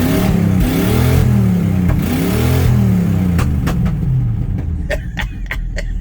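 Old Chevrolet C10 pickup's engine revved up and let back down twice, then settling to a steady idle. Short sharp clicks sound over the idle near the end.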